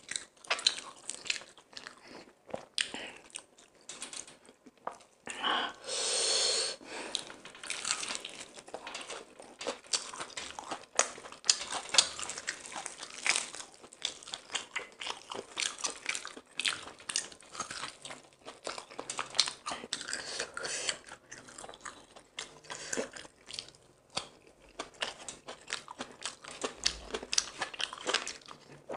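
Close-up eating sounds of a man chewing and biting into crispy fried chicken and biryani rice: wet chewing, lip-smacking and crunching, with many quick sharp mouth clicks.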